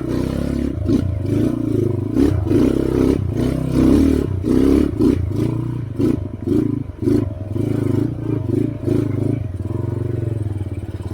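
Trail motorcycle engine working under changing throttle, revving up and down and blipping on and off in quick succession through the middle, then running steadier near the end. Clattering knocks from the bike run through it.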